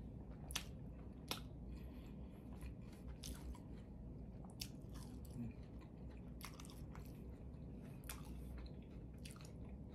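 A person chewing and biting food close to the microphone, with scattered sharp clicks and crunches over a low steady hum.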